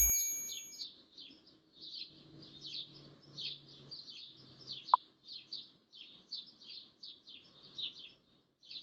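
Birds chirping, a steady run of short high chirps about three a second, over a faint low hum.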